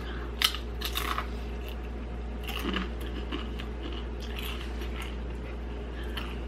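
Tortilla chip being bitten and chewed close to the microphone: two sharp crunches in the first second, then softer crunching as it is chewed.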